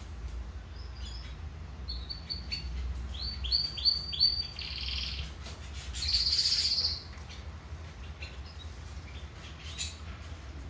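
Domestic canary singing: a run of quickly repeated high notes, then a louder, fast trill about six seconds in, with a steady low hum underneath.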